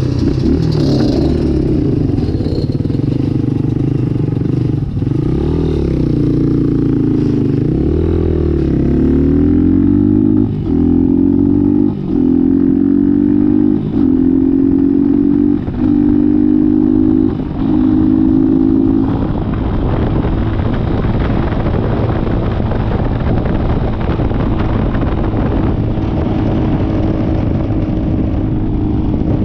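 Dirt bike engine revving up and down, then accelerating through the gears: the revs climb and drop briefly at each of about five shifts. After that it runs at a steady speed.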